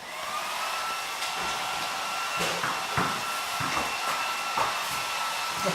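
Electric hair dryer switched on: its motor whine rises briefly and then holds a steady pitch over a constant rush of blowing air. A few short knocks sound over it.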